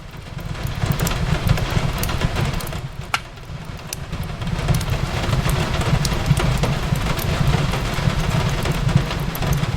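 Wood fire crackling in a fireplace with steady rain on a window: a continuous hiss over a low rumble, with scattered sharp pops and snaps of burning wood. The sound dips briefly about three seconds in, then fills out again.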